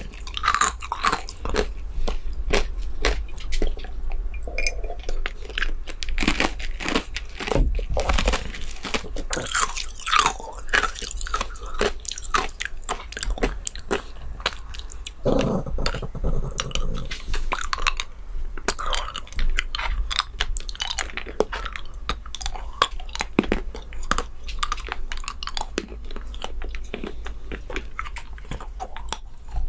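Close-miked chewing and crunching of small chocolate pieces, a dense run of irregular crackles and mouth clicks.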